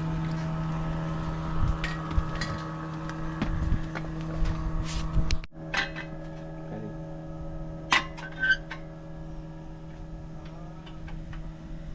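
A steady low hum with several short, sharp clinks of cookware over it, scattered through the first nine seconds.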